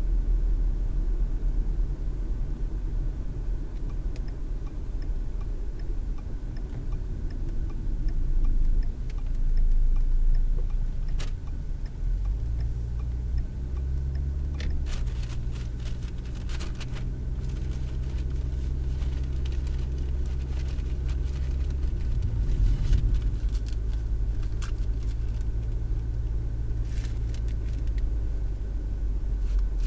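Car driving, heard from inside the cabin through a dash cam's microphone: a steady low rumble of engine and road noise. The engine's pitch shifts to a new steady level about twelve seconds in and again about ten seconds later, with a few scattered clicks and rattles.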